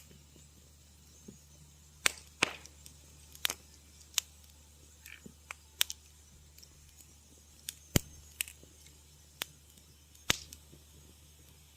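Wood fire crackling in a fireplace: irregular sharp snaps and pops, about a dozen of them, the loudest a few seconds apart, over a quiet steady background.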